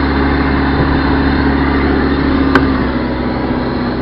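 Backhoe loader's diesel engine running steadily, heard from the operator's seat, its note sagging slightly in the second half, with one sharp click about two and a half seconds in. Wind rushes over the microphone throughout.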